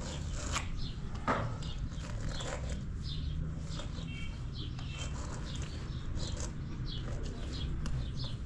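Small birds chirping over and over in short, quick calls, over a steady low rumble.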